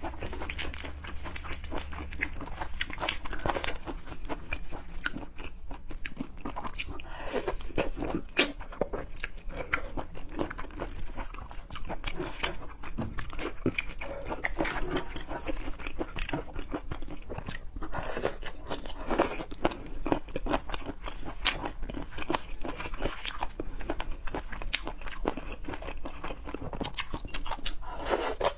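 A person eating close to the microphone: steady, irregular crunching, biting and chewing sounds with wet mouth clicks.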